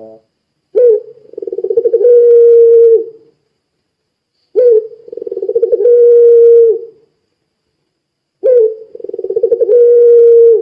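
Puter pelung turtle-dove cooing: three long calls about four seconds apart. Each opens with a sharp rising note, runs into a rapid trembling roll and ends in a long, steady low coo that drops away at the close.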